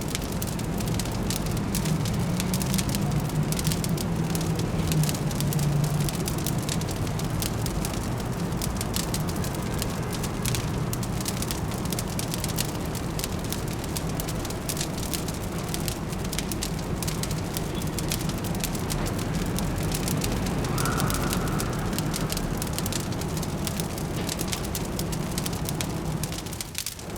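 Fireplace crackling with dense small pops and snaps, over a steady low city hum.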